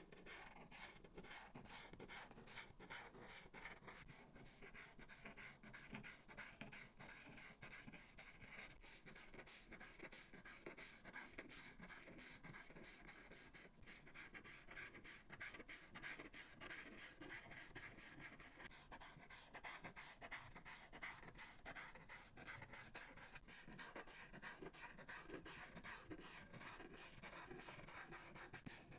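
Alcohol markers rubbing on paper in quick, faint, repeated back-and-forth strokes.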